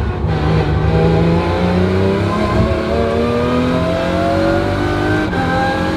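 Lotus Emira GT4 race car's supercharged 3.5-litre V6 accelerating hard, its note rising steadily in pitch, with a gear change about five seconds in.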